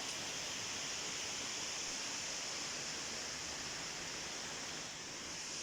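Steady, even hiss of outdoor ambience with no distinct events, unchanging throughout.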